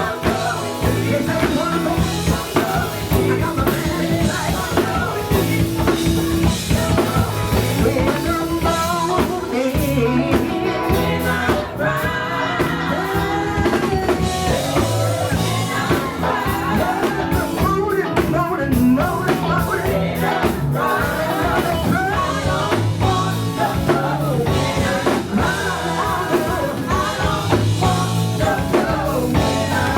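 Live gospel band with drum kit, bass and guitar playing behind a solo singer.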